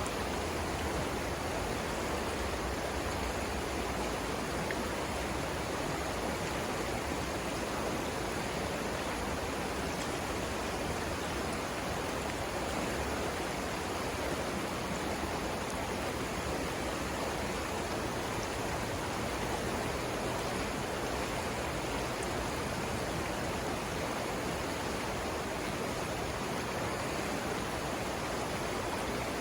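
The Savannah River rushing over its rapids in a steady, even roar of flowing water.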